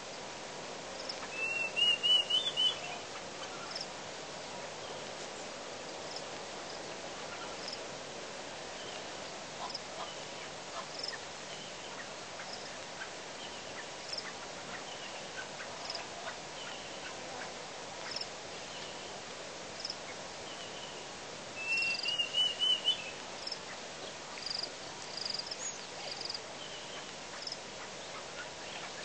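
Natural bush ambience: a bird gives a short, rapid, rising trilled call twice, near the start and again about three-quarters through, over faint high chirps repeating every second or two and a steady background hiss.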